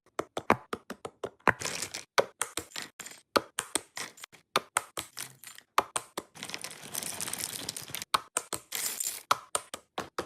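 Items being set down and arranged in a refrigerator: many quick, irregular clicks and knocks of containers against shelves and each other, with stretches of packaging rustling about two-thirds of the way through.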